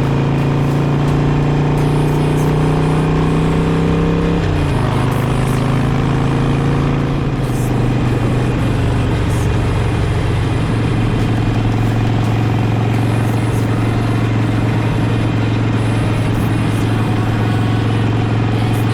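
Harley-Davidson Sportster V-twin engine running under way. Its pitch steps down once about four and a half seconds in, then holds steady.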